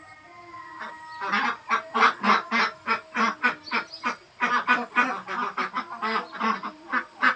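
A flock of young Ratu laying ducks quacking, calls in quick succession at about three a second, louder and denser from about a second in.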